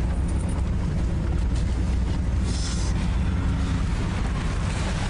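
Car cabin rumble from the engine and tyres as the car drives and pulls up, with a brief hiss about two and a half seconds in.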